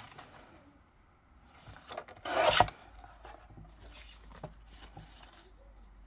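Paper guillotine cutter slicing through cardstock: one cut about half a second long, a little over two seconds in, with quieter paper handling scuffs around it.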